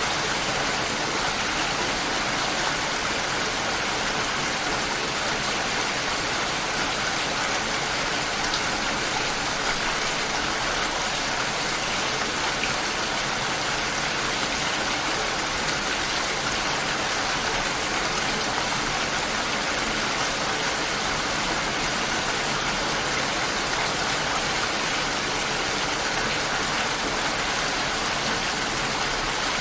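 Steady light rain falling, a constant even hiss with no thunder and no music.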